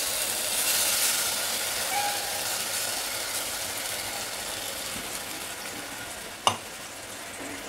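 Ground green masala paste sizzling in hot sesame oil in a steel saucepan as it is scraped in, the sizzle slowly dying down; a single sharp click about six and a half seconds in.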